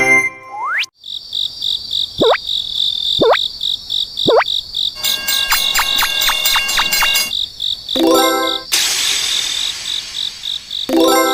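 Cartoon railway-crossing alarm sound effects: a fast, evenly repeating high-pitched electronic ding, overlaid by three falling whistle-like glides. Near the end come two short horn-like blasts with a hissing rush between them.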